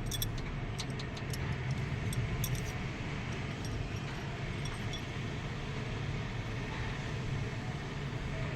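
Steady low mechanical hum, with a few light metallic clinks of tools in the first two or three seconds.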